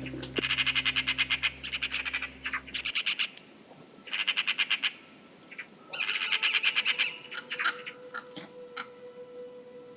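Bird giving fast rattling chatter calls in three bursts, each one or two seconds long, followed by a few short, fainter calls.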